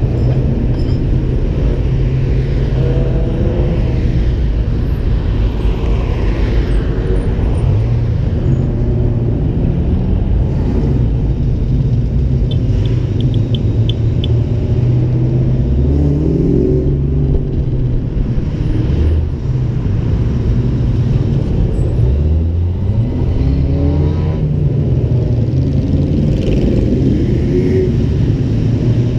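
Ford Mustang engine running at road speed, rising in pitch several times as it accelerates, over steady wind and road noise on a microphone mounted outside the car.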